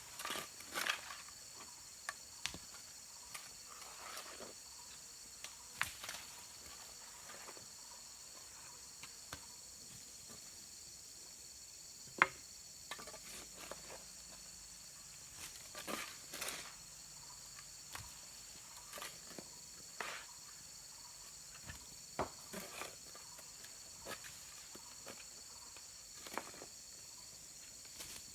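Steady, high-pitched insect chorus, with scattered short knocks and scrapes; the sharpest knock comes about twelve seconds in.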